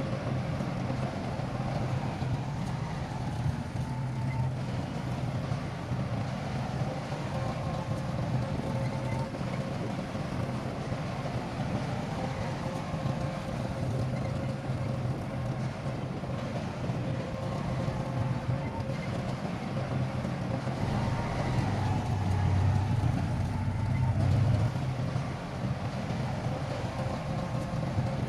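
Heavy construction machinery running steadily: a low engine drone with a faint steady whine above it, swelling louder a little after twenty seconds in.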